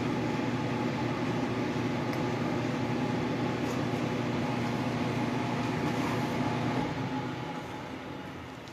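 A machine tool's motor runs steadily, then winds down from about seven seconds in as it slows to a stop.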